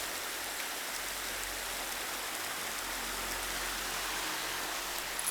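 Snowstorm weather: a steady, even hiss with no distinct events.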